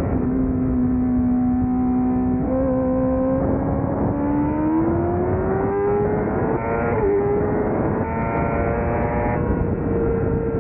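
A 600cc racing motorcycle engine pulling hard. Its pitch climbs steadily, dips briefly with an upshift about seven seconds in, then holds high, over heavy wind rush.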